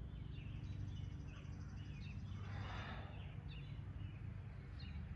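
Faint bird chirps come and go over a steady low hum, with one soft breath out about two and a half seconds in.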